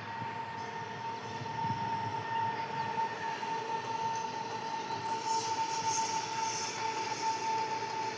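A train running on the rails with a steady high-pitched squeal over its rumble; a brighter hiss joins about five seconds in.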